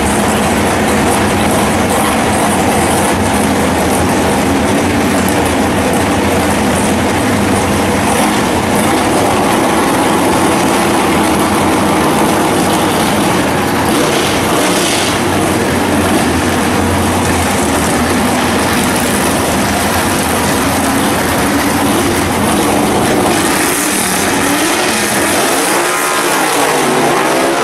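First-generation Chevrolet Camaro drag car's engine running at idle, loud and steady; near the end its pitch rises and falls.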